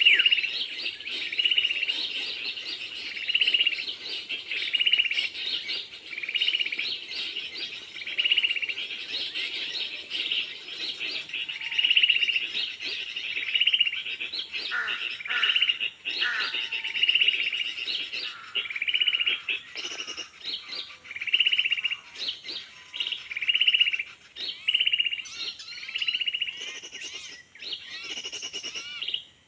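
Small bird's high chirp repeated evenly about once a second, with other bird calls joining in from about halfway through.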